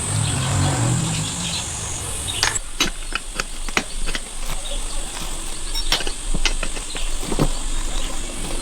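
Irregular light taps and clicks, a few strokes a second at uneven spacing, with a low hum under the first two seconds or so.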